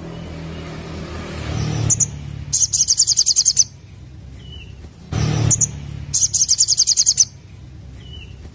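Little spiderhunter (sogok ontong) singing: two bursts, each about a second long, of fast, high-pitched repeated notes, with single sharp call notes between them. A low rushing noise swells up twice under the song.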